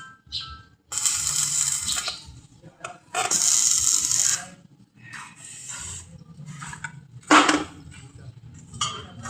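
Metal fabrication work: two rasping bursts about a second long each, scattered small clicks and rattles, and one sharp metallic clank later on.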